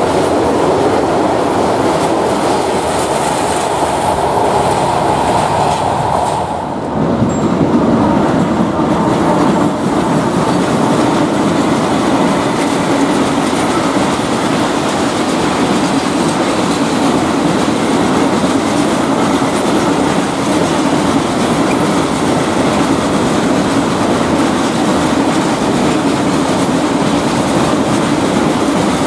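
A train passing close by: a steady loud rumble of wheels running on the rails. About seven seconds in the sound briefly dips and then carries on with a lower rumble.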